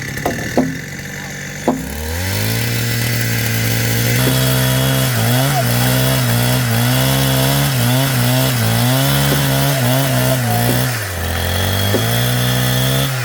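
Power tool motor running up and then working into wood, its pitch dipping again and again as it bogs under load. It eases off near the end and picks up once more. A few knocks come before it starts.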